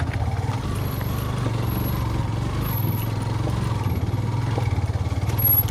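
Yamaha FZ V2 motorcycle's single-cylinder engine running steadily at low revs while the bike climbs a rough off-road hill track.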